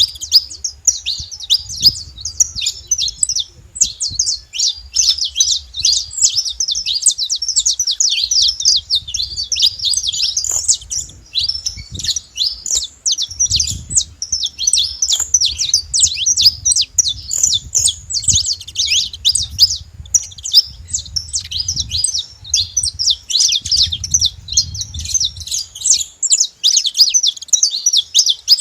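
A flock of saffron finches chirping and calling over one another in a dense, unbroken chatter.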